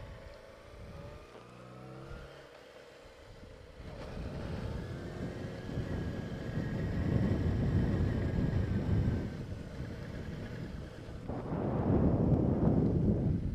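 A 2007 Yamaha YZF-R6's inline-four engine revving and pulling away at low speed, with its pitch rising and later easing off. Wind rushes over the microphone, loudest near the end.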